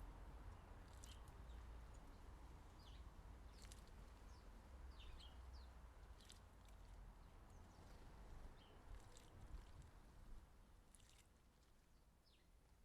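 Very faint outdoor ambience: a low rumble, with scattered soft splashes and ticks from a house sparrow bathing in a bird bath, and faint distant bird chirps.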